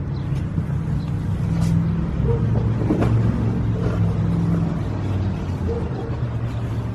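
Low, steady rumble of a motor vehicle running nearby, swelling in the middle and easing near the end, with a few light knocks.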